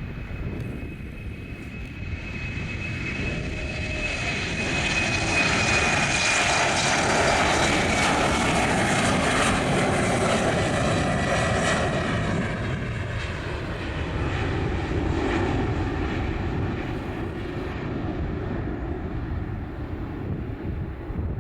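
Embraer 195 jet taking off, its CF34 turbofans at takeoff thrust. The engine noise swells to a peak about a third of the way in, then slowly fades. A high whine slides gradually down in pitch as the jet passes.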